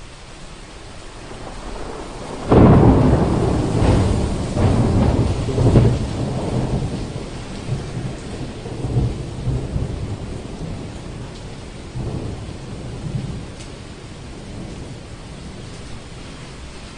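Thunder over steady rain: a sudden thunderclap about two and a half seconds in, followed by several more cracks and a rumble that dies away over the next ten seconds.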